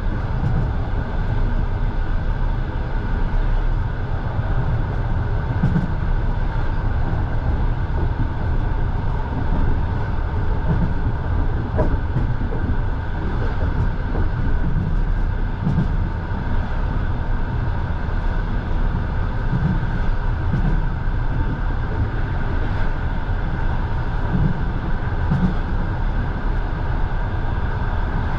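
Russian passenger train running at speed, heard from inside the carriage: a steady low rumble of wheels on rails with irregular low swells.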